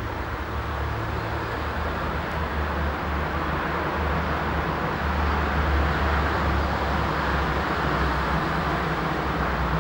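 A train running, with a steady low hum under a noisy rumble that slowly grows louder.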